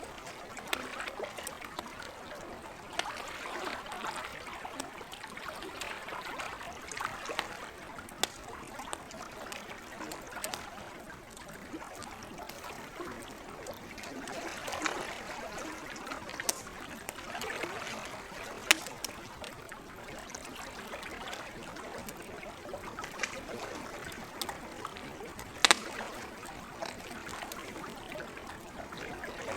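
Lake water lapping and trickling at the shore, with a wood campfire crackling: scattered sharp pops, two of them much louder, near the middle and about three-quarters of the way through.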